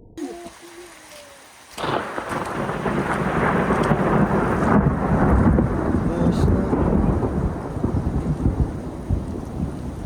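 A loud, long rolling rumble of thunder that sets in suddenly about two seconds in and stops abruptly near the end.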